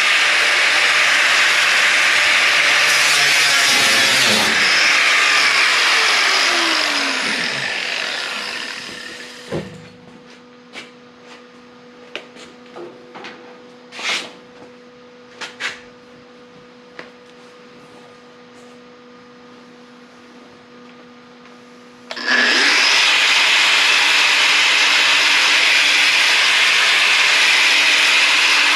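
A power saw cutting through the car body's sheet steel. It runs for about seven seconds, then winds down with a falling pitch. A few light clicks and knocks follow, and the saw starts cutting again about 22 seconds in.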